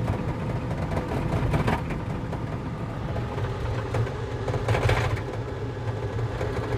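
Volvo skid steer's diesel engine running steadily while the machine works dirt. Two brief rattles stand out, about a second and a half in and again near five seconds.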